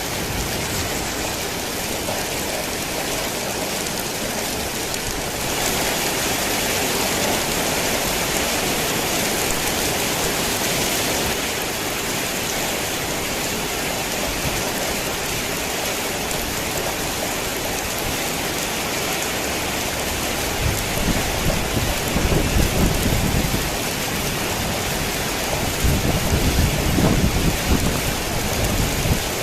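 Heavy rain falling on a tin roof: a steady, even hiss that swells for a few seconds early on, with two low rolls of thunder rumbling in the second half.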